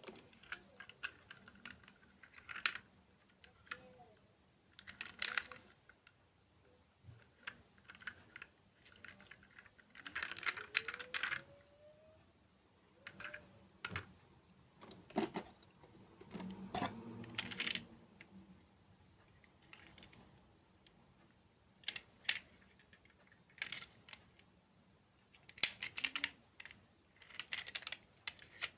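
Close-miked eating of sweet desserts: irregular clusters of crisp crunches and clicky chewing every second or few seconds.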